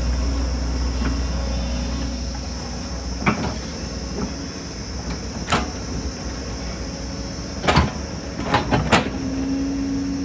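Excavator working: its diesel engine running steadily with a heavy rumble that drops off about a third of the way in, while sharp metallic clanks and knocks sound a few times, clustering near the end. A steadier engine hum sets in just before the end.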